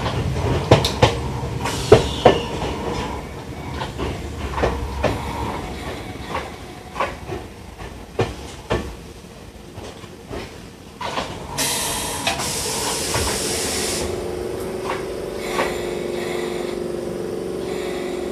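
Enoshima Electric Railway 1000-series electric railcar slowing to a stop: its wheels click in pairs over rail joints, the pairs coming further and further apart. About twelve seconds in comes a loud two-second hiss of compressed air, and then a steady hum once the car stands still.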